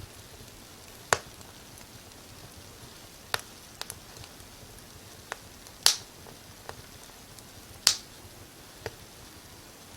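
Wood fire in a fireplace crackling: irregular sharp pops, about eight in the stretch, the loudest around six and eight seconds in, over a steady soft hiss.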